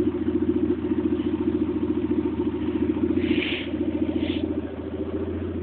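Citroen Saxo SX petrol engine idling with a steady, even pulse.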